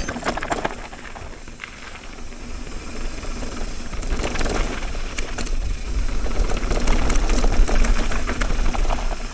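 Mountain bike running fast down a rough dirt trail: rushing wind and tyre rumble with frequent clattering knocks from the bike over roots and rocks, growing louder about four seconds in.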